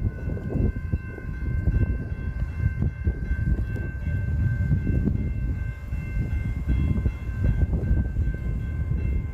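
Railroad crossing bells ringing as one steady, high ring over an uneven low rumble.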